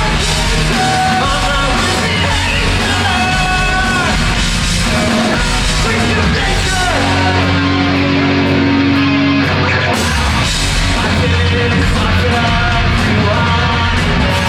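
A rock band playing live, with a sung and shouted lead vocal over a loud full band.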